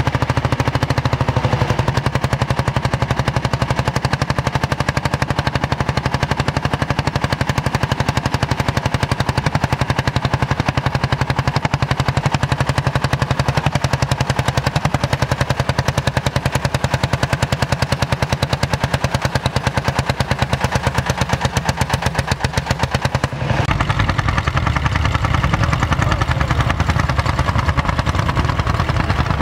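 Vintage tractor engine running with a rapid, even chuffing beat. About 23 seconds in, the sound shifts abruptly to a deeper, heavier note.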